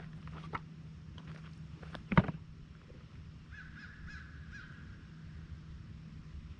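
A sharp knock about two seconds in, then a bird calling several times in quick succession, over a steady low hum.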